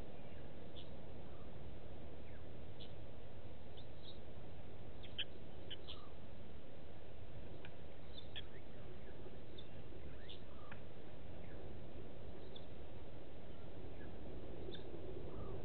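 Short, high bird chirps, scattered at about one or two a second, over a steady low background hiss.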